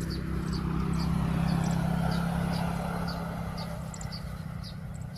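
A motor vehicle passing: a low engine hum that swells to a peak about a couple of seconds in and then fades away. Short high chirps repeat about twice a second throughout.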